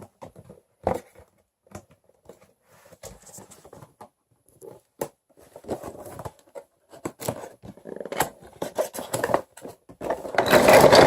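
Wooden toy train-set pieces and their packaging being handled and dumped out of the box: scattered clicks, knocks and scrapes, growing into a louder, dense clatter about ten seconds in.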